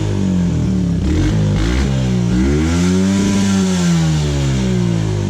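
Kawasaki 110 dirt bike's single-cylinder four-stroke engine revving up and down through a homemade plastic muffler taped onto the exhaust. The revs dip and rise unevenly, then climb in one long swell about two and a half seconds in and fall back toward the end.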